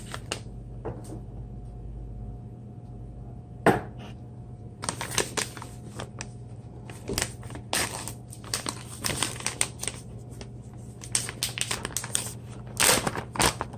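Plastic food packaging crinkling and tearing as it is handled and opened: a single sharp click a little under four seconds in, then a long run of irregular crackles.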